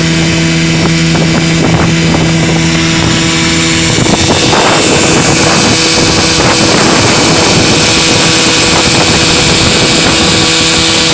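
Small outboard motor running steadily while driving a boat across the water. About four seconds in the engine note shifts and a hiss of rushing water and wind grows louder.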